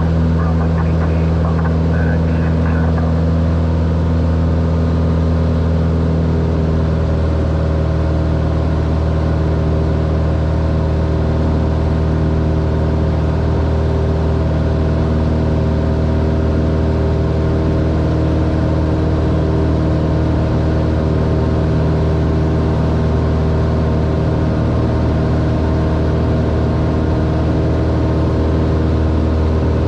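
Cessna 182R's six-cylinder piston engine and propeller droning steadily in cruise, heard from inside the cabin; the pitch of the drone shifts slightly about seven seconds in.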